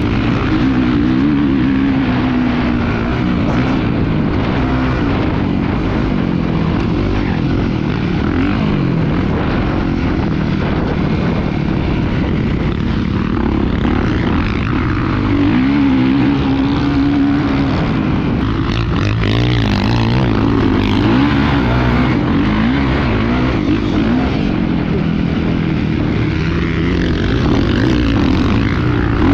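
Dirt bike engine running hard as it is ridden, its pitch rising and falling repeatedly with the throttle over a constant rush of noise.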